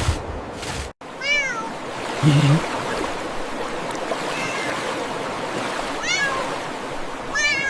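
Kitten meowing three times, short high cries falling in pitch, over a steady rush of running water, with one lower, deeper cat call about two seconds in. Soft steps are heard in the first second before a brief cut.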